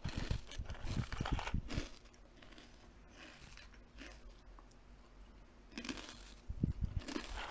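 Close-up eating of crisp food: crackling bites and crunchy chewing, in a dense run for about the first two seconds, a quieter stretch with scattered small crunches, then another burst near the end.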